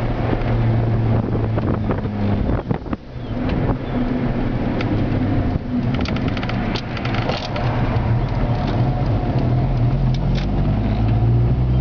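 Honda D16Z6 1.6-litre SOHC VTEC four-cylinder engine, heard from inside the Civic's cabin at easy part-throttle cruising, held back because the engine is still cold. Its steady note drops away briefly about two and a half seconds in, then picks up again, with a run of light clicks and rattles from about six to seven and a half seconds in.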